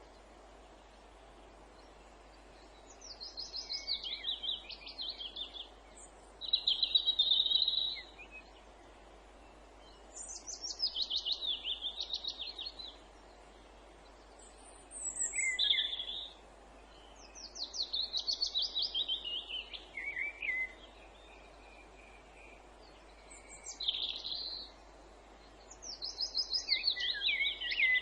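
A songbird repeating the same song phrase about seven times, a few seconds apart: each phrase is a quick run of notes dropping in pitch and ending in a short flourish. A faint steady outdoor hiss runs underneath.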